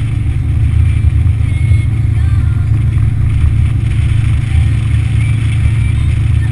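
Yamaha F60 four-stroke outboard motor running steadily under way, a loud continuous low rumble.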